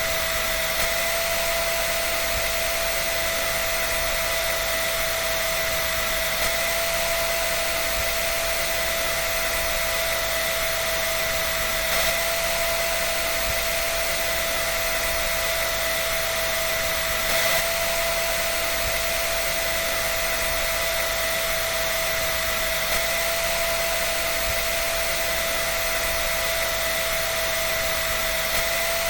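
A dryer running steadily: an even rushing of air with a constant whine over it, and two faint brief knocks near the middle.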